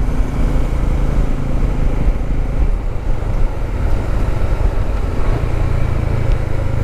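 Motorcycle running steadily at road speed, its engine mixed with rushing wind and road noise on the rider's microphone.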